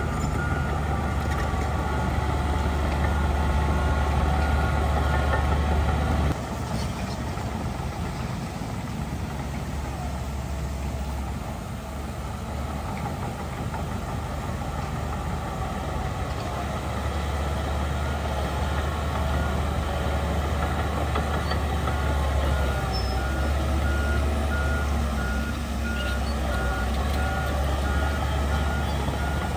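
Heavy earthmoving machinery running with a steady low diesel rumble, while a reversing alarm beeps in an even rhythm at the start and again near the end.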